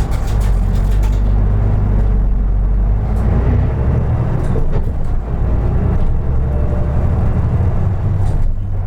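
2003 Isuzu Erga Mio (KK-LR233J1) city bus under way, heard from inside the cabin: its diesel engine and drivetrain running steadily with a heavy low drone. The sound eases briefly about five seconds in.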